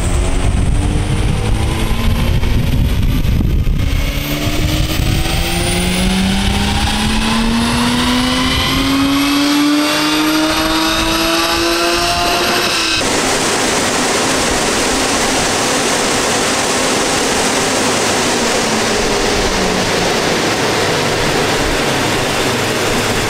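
Turbocharged BMW M50B30 stroker straight-six on a chassis dyno making a pull: a low rumble, then the engine revving steadily up in pitch for about eight seconds before cutting off abruptly about halfway through. After that comes a steady loud rush of air from the dyno's cooling blower.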